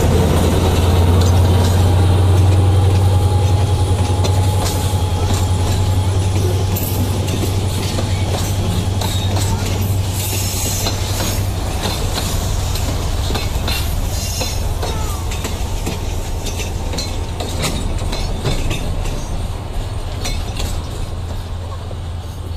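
Railway tank wagons and service cars rolling past close by: steel wheels clicking over the rail joints over a constant low rumble, slowly fading toward the end as the train moves away.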